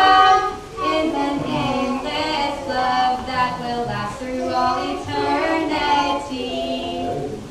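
High voices singing a melody in long held notes, with the pitch moving from note to note.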